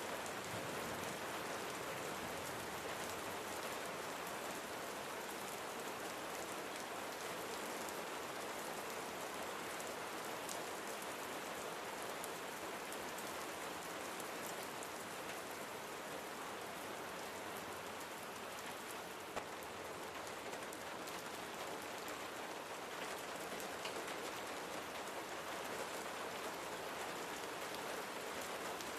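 Steady rain falling on a surface, an even hiss with scattered drop ticks and one brief sharper tick a little past halfway.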